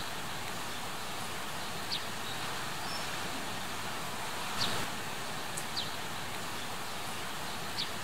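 Outdoor garden ambience: a steady hiss, with a bird giving short, high chirps that fall in pitch, four times spread through.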